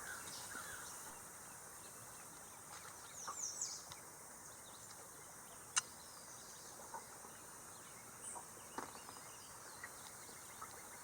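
Faint morning woodland ambience: a steady high insect hum, with a few short songbird chirps about three seconds in and a single sharp click near the middle.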